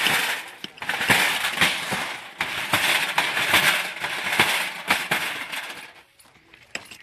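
Repeated crunching and scraping on loose gravel, with sharp clicks, roughly one stroke every half second to second, dying away about six seconds in.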